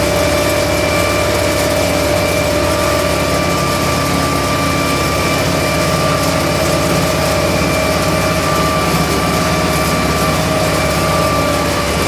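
U650 tractor's four-cylinder diesel engine running steadily, with a steady whine above the engine note.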